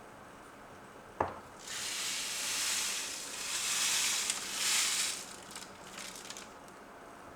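A sharp click, then a high hiss lasting about three and a half seconds that swells twice and fades out in a few faint crackles.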